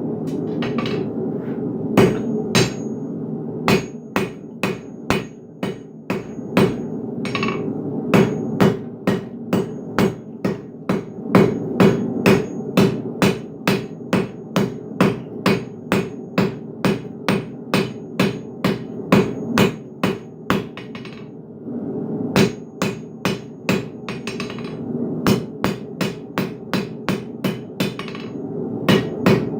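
Blacksmith's hammer striking hot iron on an anvil to forge a hook, in runs of about two blows a second with short pauses, some blows with a brief metallic ring. A steady low hum runs underneath.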